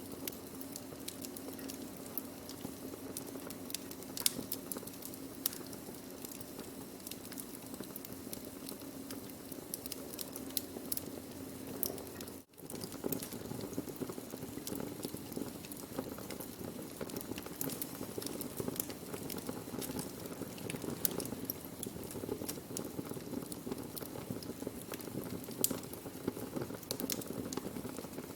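Burning wood fire: a steady hiss of flames with frequent sharp crackles and pops of the burning wood. The sound cuts out for a split second near the middle.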